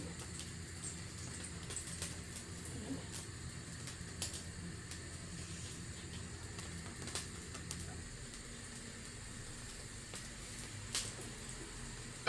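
A pot of dal simmering on the hob, bubbling quietly with a few small clicks over a low steady hum.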